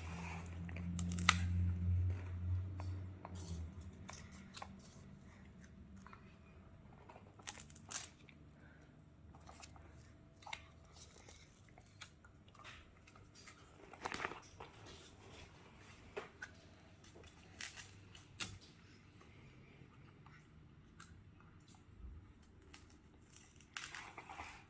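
Small children eating: scattered clicks, taps and crinkles of utensils, dishes and food packaging, with occasional chewing. A low hum runs through the first few seconds.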